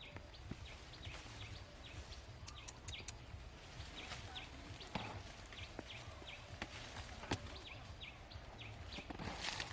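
Outdoor ambience with a small animal chirping in a steady rhythm, about two short high chirps a second, over a low rumble. A few sharp clicks and a brief rustle near the end.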